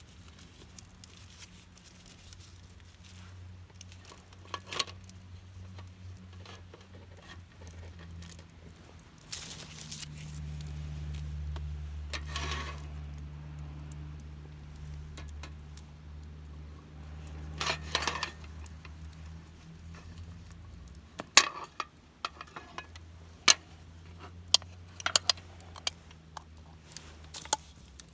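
Scattered sharp clicks and knocks of small objects being handled, coming thick and fast in the last several seconds, with a low steady rumble through the middle.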